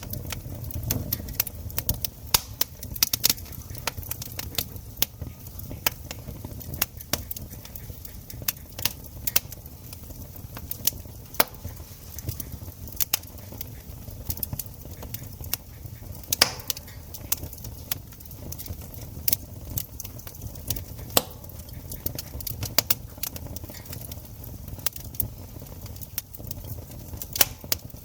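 Wood campfire crackling: irregular sharp pops and snaps over a low rumble, with one louder snap about halfway through.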